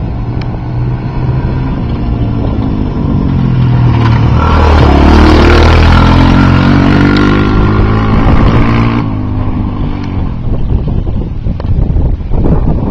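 Dirt bike engine running, growing louder to its loudest about five seconds in and fading again after about nine seconds, its pitch dipping and rising as the throttle changes.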